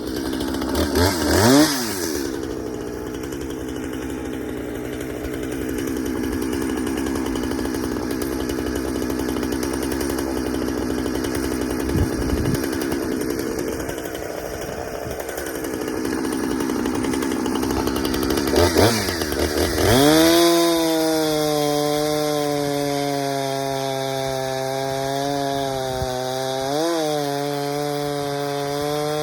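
Two-stroke chainsaw running at high revs, cutting wood. The throttle sweeps up and down about a second in and again about two-thirds of the way through, then holds a steady high whine with one brief dip near the end.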